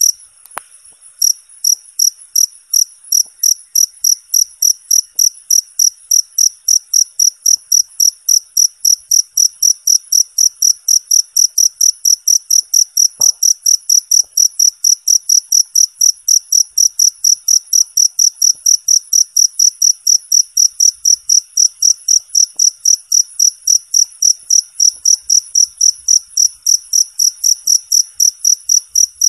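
Cricket chirping steadily, a clean high-pitched chirp repeated about three times a second, with a brief break near the start.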